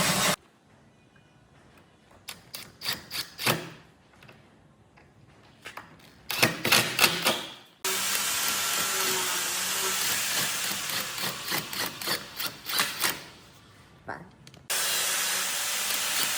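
Tools working wood: clusters of short, sharp scraping strokes, with a steadier stretch of tool noise in the middle. The sound changes abruptly three times.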